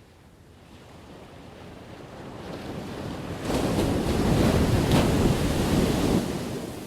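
Ocean wave breaking on the shore: the surf swells, crashes loudly with a hissing wash from about three and a half seconds in, then recedes near the end.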